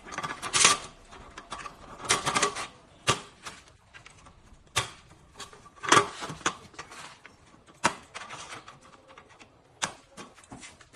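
Table board's plastic snap clips being pressed onto the metal tubes of a folding wagon table frame: irregular clicks, knocks and short rattles, loudest about half a second, two seconds and six seconds in.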